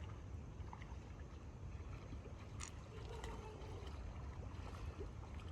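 Steady low rumble of wind buffeting the microphone, with faint trickling water and a few light clicks.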